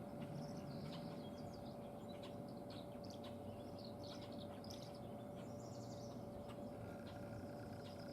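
Small birds chirping and twittering in quick short calls throughout, over a steady faint hum.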